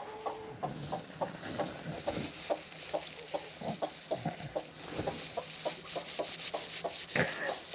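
Hens clucking in short, repeated notes, over a steady crackling rustle of straw being rubbed by hand, which starts about a second in.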